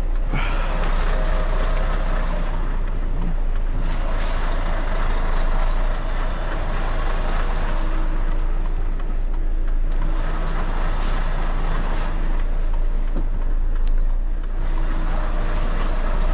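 Heavy goods vehicle's diesel engine running steadily at low speed as the articulated lorry creeps out of a tight yard, with a few brief hisses.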